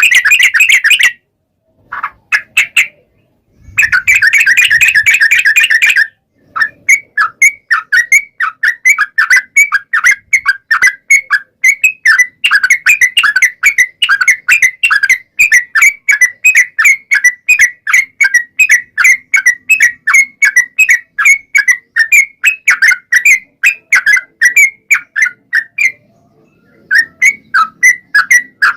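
Yellow-vented bulbul (trucukan) singing a long rolling song: two short bursts of dense chatter at the start, then a long run of quick, bright, repeated notes, several a second. The song breaks off briefly near the end, then picks up again.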